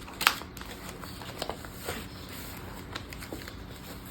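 Hands slipping a notebook insert into a faux-leather traveler's notebook: a sharp tap or click just after the start, then a few soft clicks and rustles of paper and cover.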